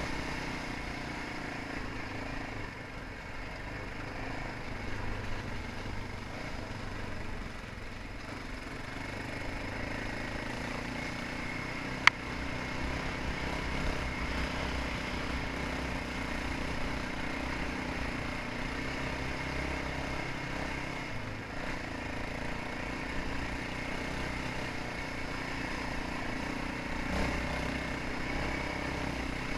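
Dirt bike engine running fairly steadily under way, with low rumble throughout. A single sharp click about twelve seconds in.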